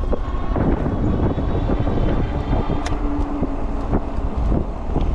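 E-bike riding over a dirt track: wind buffeting the microphone over a steady rumble from the tyres, with scattered knocks and rattles from bumps and a faint steady motor whine. A sharp click comes about three seconds in.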